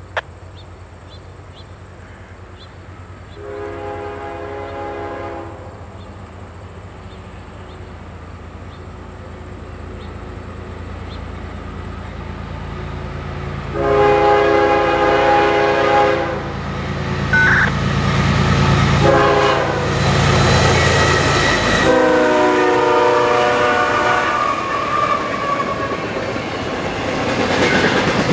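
An approaching diesel freight train sounds its horn in several blasts: a distant long one, then louder long ones and a short one as it nears. The horn's pitch drops as the locomotive passes, and the rumble of the double-stack intermodal cars rolling by builds to a loud, steady clatter near the end.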